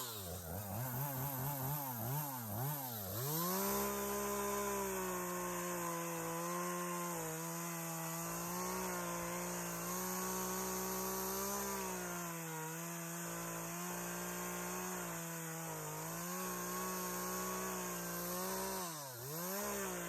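Two-stroke chainsaw revved up and down a few times, then held at high revs for about fifteen seconds as it cuts into the tree's trunk. The revs drop briefly near the end and pick up again.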